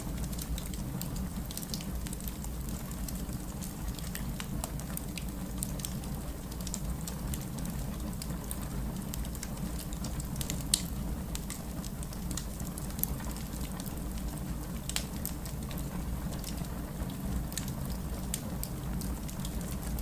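Wood fire crackling in a fireplace: a steady low rumble of flame under a continuous scatter of small sharp crackles and pops, with a couple of louder pops about eleven and thirteen seconds in.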